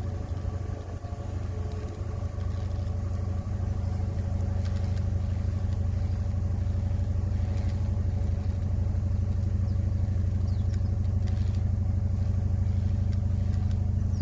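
Pickup truck engine idling just after a cold start at 15 below zero Fahrenheit. It grows a little louder over the first few seconds, then runs on steadily.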